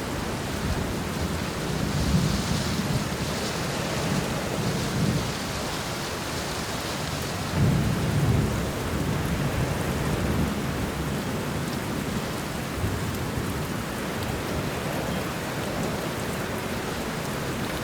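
Steady rain falling in a forest, with low thunder rumbling underneath that swells about two seconds in and again about eight seconds in.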